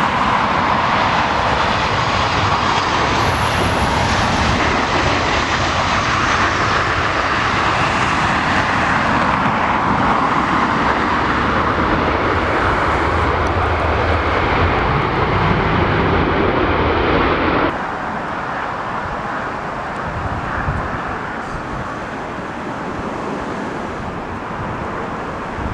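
Airliner engines passing close: a loud, steady engine noise that cuts off suddenly about 18 seconds in, leaving a quieter background noise.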